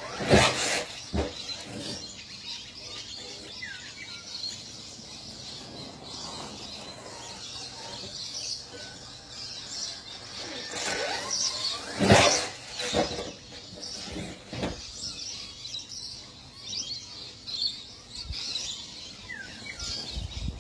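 Birds chirping over outdoor background noise, broken by a few short loud noises, the loudest about half a second in and about twelve seconds in.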